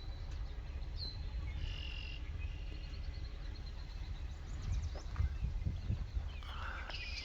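Outdoor ambience: a steady low rumble of wind on the microphone, with a few short, high chirps from small birds or insects about a second in, around two seconds in, and a brief cluster near the end.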